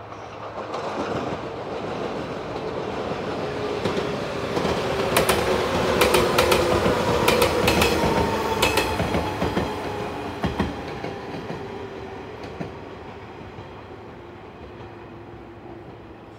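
Yellow JR 115-series electric train passing close by, swelling up and then fading away as it recedes. At its closest, about five to nine seconds in, the wheels clatter in quick clicks over the rail joints, and its hum drops slightly in pitch as it draws away.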